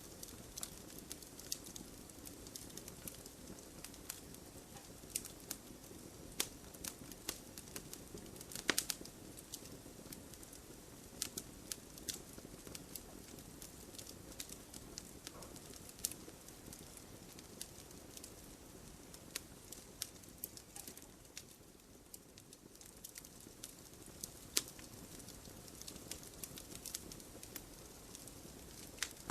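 Wood fire in an open fireplace crackling: irregular sharp pops and snaps over a soft steady low hiss, with a few louder pops, one about nine seconds in.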